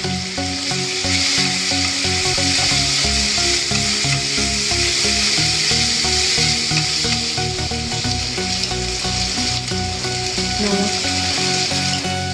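Boiled potato sticks, onion and peanuts sizzling steadily in hot oil in a nonstick kadai, stirred now and then with a spatula.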